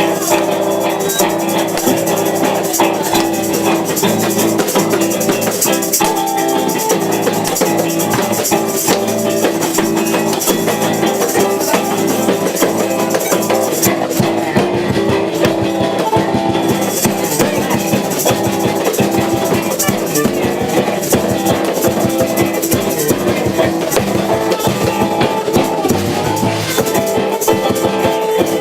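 Live band music with guitar, a shaken rattle or maraca and drums.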